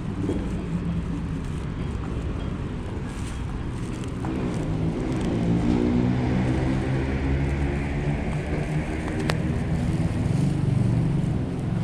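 A motor vehicle's engine running, its low steady hum growing louder from about four seconds in.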